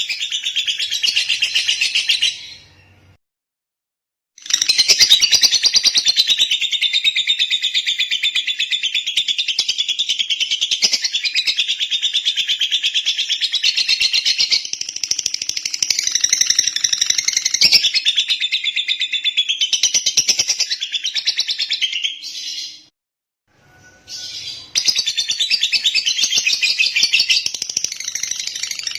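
Lovebird singing a long, rapid, high-pitched chattering song. It breaks off twice for a second or two, about three seconds in and again with about six seconds to go.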